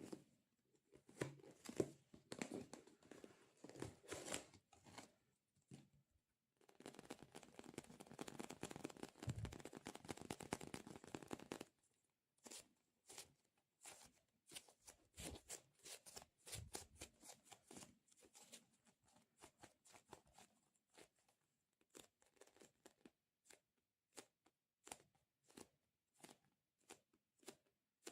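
Faint close-up sticky ASMR sounds: a tacky surface crackling as it is peeled and pulled apart, with one longer continuous stretch of crackling, then a long run of short separate sticky pops and taps.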